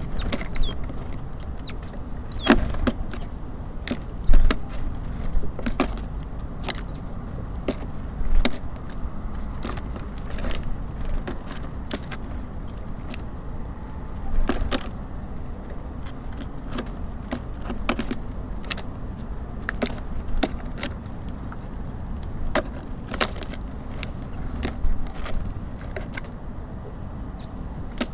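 Small birds, tits and sparrows, pecking and landing at a bird feeder: irregular sharp taps and knocks, some a few per second, over a steady low rumble of city traffic, with a brief chirp near the start.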